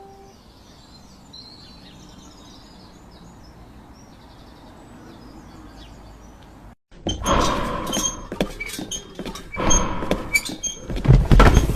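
Faint birds chirping over a low background hiss. After a sudden cut about seven seconds in, a loud, irregular run of clicks and knocks.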